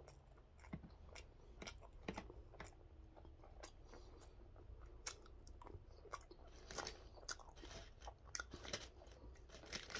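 A person chewing a mouthful of food, faint, with many small irregular clicks and crunches; the food is gwamegi, semi-dried fish.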